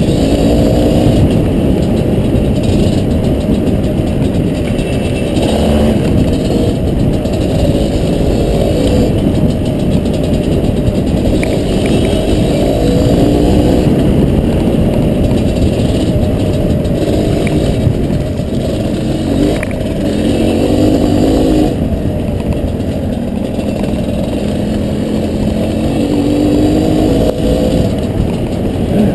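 Honda CRM250RM's single-cylinder two-stroke engine under way on a dirt trail, its pitch rising and falling over and over as the throttle opens and closes.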